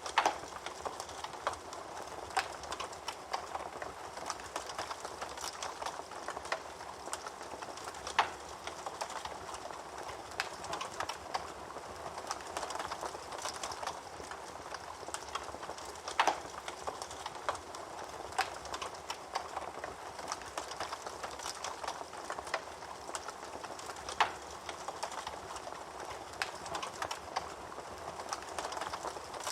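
Wood fire burning in a fireplace: a steady hiss with constant small crackles and a few louder, sharper pops spread through.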